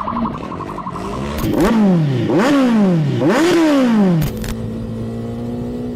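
Motorcycle engine revved hard three times in quick succession, each rev climbing fast and then dying back down. Just past four seconds in it gives way abruptly to a steady engine drone.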